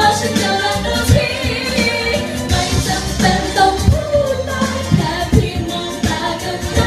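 A girl singing a Thai pop song over a backing track with drums.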